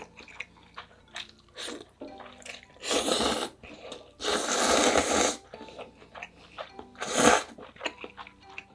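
Close-miked slurping of spicy ramyeon noodles and broth: three long slurps, the longest in the middle, with small clicks and mouth noises between.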